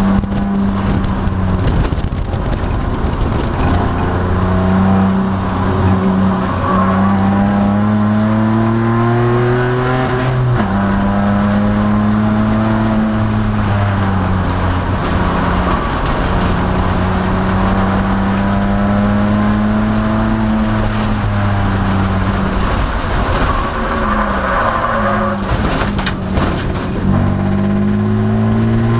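2002 Nissan Maxima race car's V6 engine under load on track, its revs climbing steadily to a sharp drop at an upshift about ten seconds in, then rising and falling again. A few sharp knocks come near the end.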